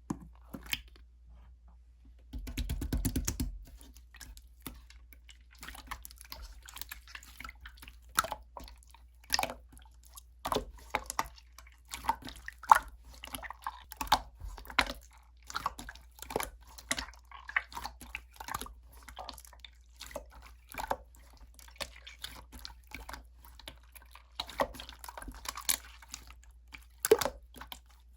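Clear slime being pressed, poked and stretched by hand, making irregular wet clicks, pops and crackles. A denser, louder squelch with a low rumble comes a few seconds in.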